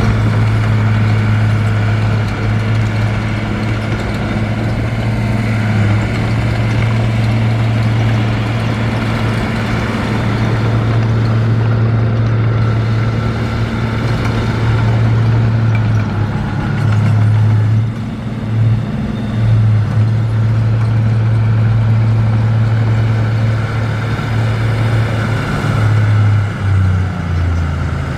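Heavy diesel engine running steadily with a deep hum, dipping briefly in level a few times after the middle and dropping in pitch near the end as it is throttled back.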